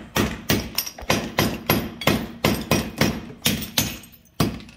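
Hammer striking a small masonry chisel, chipping out broken pieces of ceramic floor tile. About a dozen sharp, even taps come roughly three a second, with a short pause near the end.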